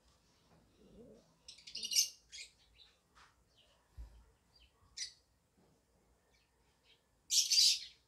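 Bird calling: a burst of chirps and harsh calls about two seconds in, a single short call near the middle, and a loud harsh call near the end.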